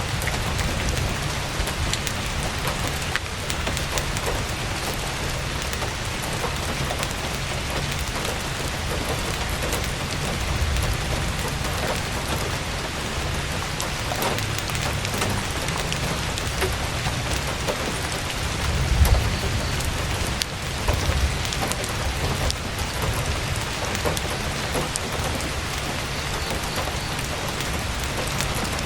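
Heavy rain falling steadily on a tent's canvas, with many small sharp crackles from a campfire scattered through it. A low rumble swells briefly about two-thirds of the way through.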